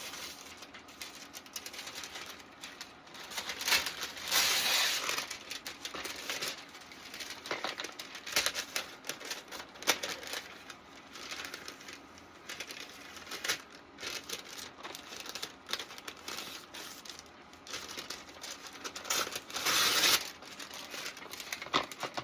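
Parchment paper crinkling and rustling as it is handled, in irregular bursts, loudest about four seconds in and again near the end.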